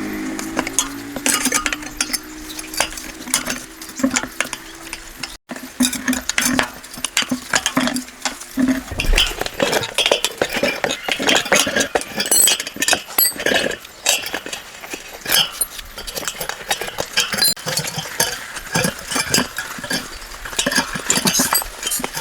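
Metal parts and hand tools clinking and knocking in quick, irregular strokes. A humming machine tone in the first few seconds breaks off abruptly a little after five seconds in.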